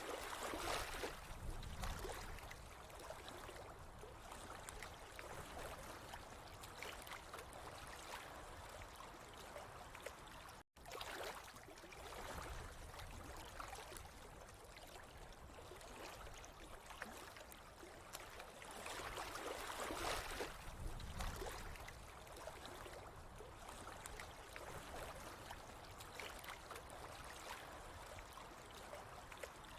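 Flowing, trickling water running steadily, swelling a little louder at the start and again about two-thirds of the way through, with a momentary cut-out about ten seconds in.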